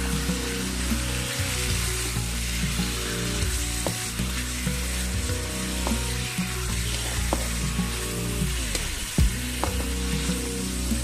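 Chicken pieces sizzling in hot oil with onion and garlic in an aluminium wok, at the sauté stage where the chicken changes colour and renders its fat. A wooden spatula stirring them scrapes and knocks against the pan, with a few sharp clicks spread through.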